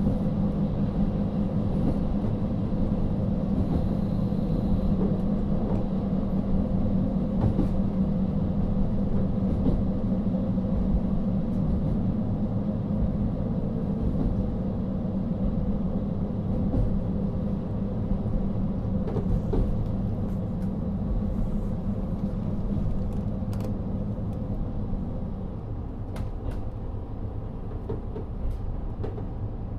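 Running sound from inside a JR KiHa 40 series diesel railcar (Type 350): the N-DMF13HZB diesel engine drones steadily under a low rumble of the running gear. The sound eases off slightly in the last few seconds, and a few light clicks come near the end.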